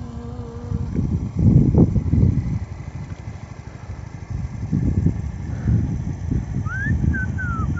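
Wind buffeting the microphone in irregular gusts, strongest about two seconds in, with a bird chirping a few times near the end.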